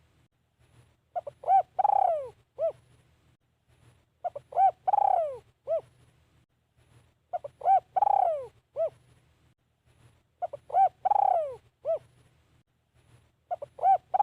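Spotted dove cooing. It repeats the same phrase about every three seconds, five times: a few short coos, one long falling coo, then a last short coo.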